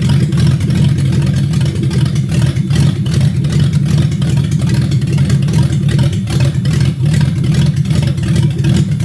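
Toyota 1UZ-FE 4.0-litre V8 idling steadily.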